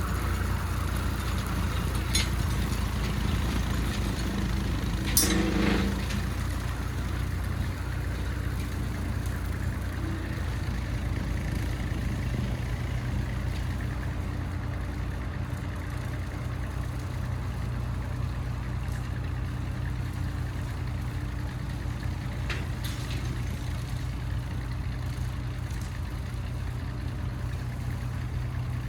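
Small tractor's engine running steadily, with a sharp knock about two seconds in and a louder clunk around five seconds in.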